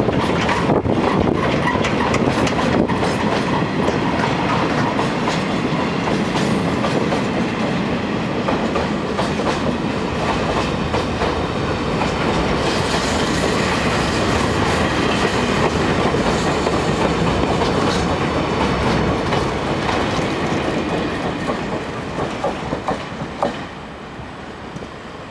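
Freight train rolling past, a steady clickety-clack of wagon wheels over the rail joints. It fades about 22 seconds in, with a few last knocks.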